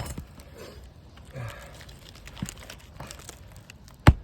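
Quiet handling and rustling while a roofing nail is set in an asphalt shingle, then near the end one sharp hammer blow, the first of a series driving the nail through the shingle's nail line.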